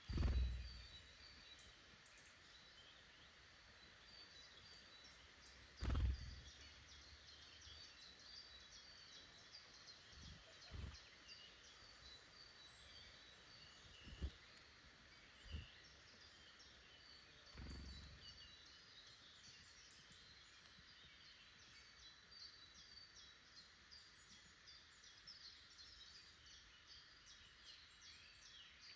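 Faint chorus of small woodland birds, many short high chirps and song phrases overlapping throughout. About half a dozen brief dull low thumps break in, the loudest right at the start and about six seconds in.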